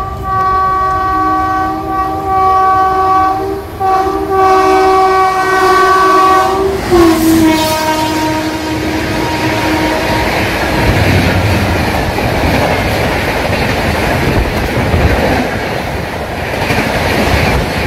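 Locomotive horn sounding two long blasts as the train approaches at speed. The horn's pitch drops as the locomotive passes about seven seconds in, then the coaches rush by with a loud rumble and clatter of wheels on the rails.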